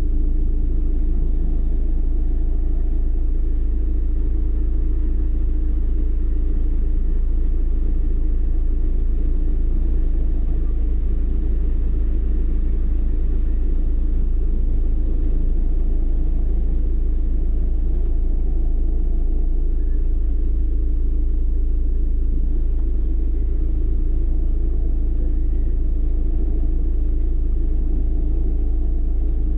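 Steady low rumble of a car being driven, heard from inside the cabin: road and engine noise that stays even throughout, with a faint steady hum.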